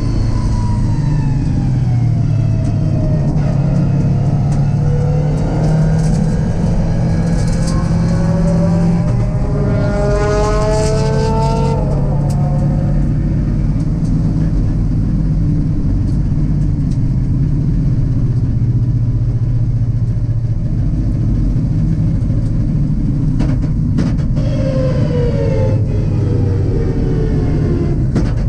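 LS V8-swapped Mazda MX-5 heard from inside the car, engine running at low load as it slows into the pits, its note rising for a few seconds partway through and falling away again near the end, with road and wind noise.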